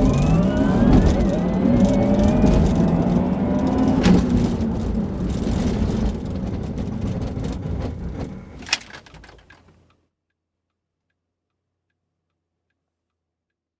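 A car accelerating, its pitch climbing in steps through the first few seconds, then running on more steadily and fading out, with silence from about ten seconds in.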